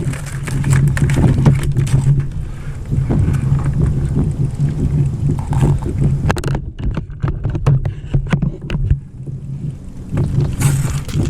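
Kayak under way on open water: a steady low hum with water and wind noise, and many short knocks and splashes. It quietens for a few seconds past the middle.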